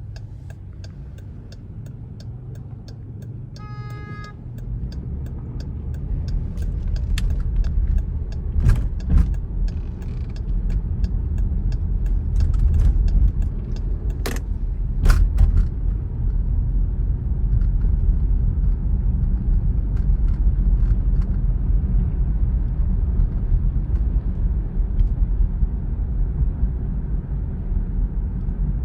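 Low, steady droning rumble of aircraft overhead that swells over the first several seconds and then holds, with scattered clicks and a short pitched beep about four seconds in.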